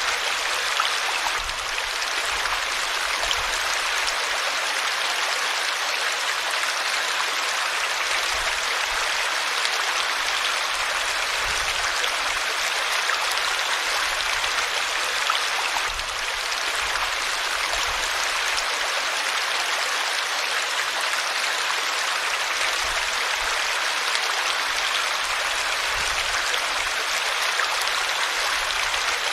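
River water flowing over rocks, a steady rushing burble that keeps an even level throughout.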